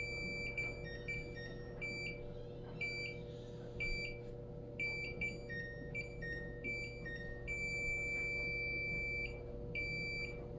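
Samsung refrigerator control panel beeping in forced-defrost (Fd) mode: a run of short electronic beeps at two pitches, with one longer held beep about three quarters of the way through. The beeping signals that the defrost cycle is running. A steady low hum sits beneath it.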